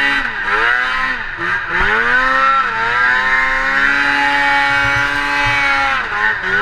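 Snowmobile engine revving, its pitch dipping and climbing several times, then held at high revs for a few seconds before falling off near the end.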